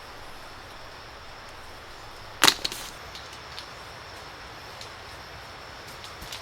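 A single sharp knock or crack about halfway through, followed by a few fainter clicks, over a steady outdoor hiss.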